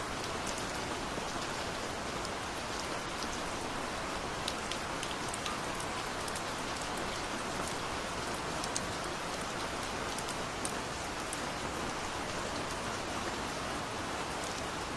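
Steady gentle rain falling on a surface: an even hiss with scattered sharp drip ticks of individual raindrops.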